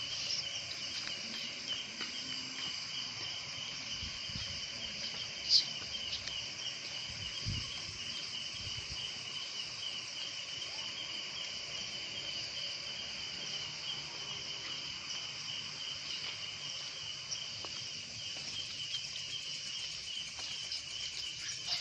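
A steady chorus of insects trilling in a fast, high-pitched pulse, with a single sharp click about five and a half seconds in.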